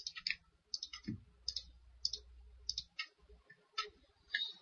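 Computer mouse clicks, about ten single clicks at irregular intervals, as curves are picked in the CAD software.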